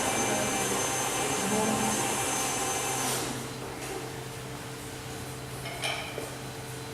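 A steady machine whir with a thin high whine, cutting off about three seconds in, then a low room hum and a faint light clink near the end.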